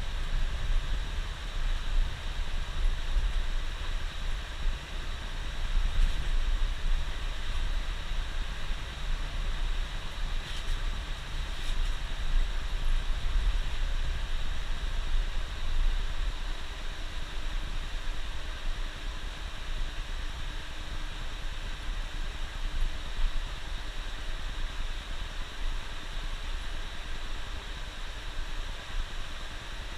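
Bus running down the road, heard from inside the cab: a steady low engine and road rumble with a continuous hiss over it.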